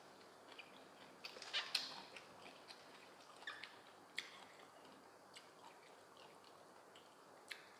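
Quiet mouth sounds of a person eating: wet chewing and lip-smacking clicks, a cluster about a second in and a few scattered smacks after.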